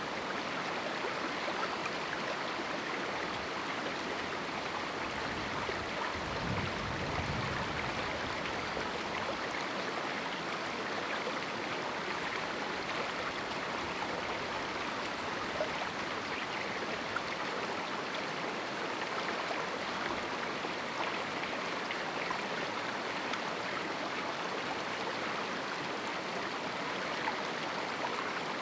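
A small river flowing steadily through a narrow canyon, a constant rush of running water over rocks. A brief low rumble of water sounds about six to eight seconds in.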